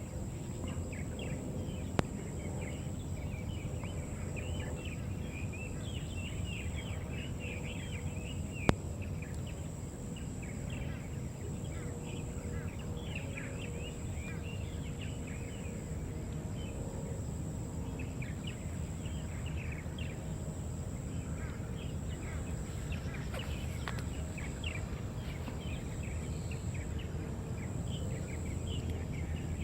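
Many small birds chirping all through, over a steady low rumble and a thin, steady high-pitched tone. Two sharp clicks stand out, the first two seconds in and the second under nine seconds in.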